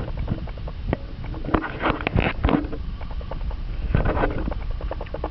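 Wind rumbling on the microphone, with scattered clicks and a few short rustling bursts.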